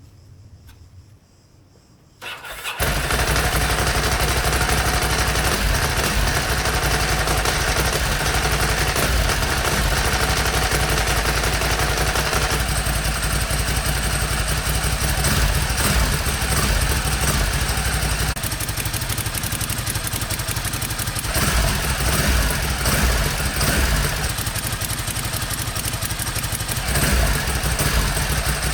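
Ducati Multistrada 1000DS's air-cooled L-twin engine started about two seconds in, then running steadily with a few small changes in level, on its exhaust freshly refitted with new gaskets to cure an exhaust sound problem.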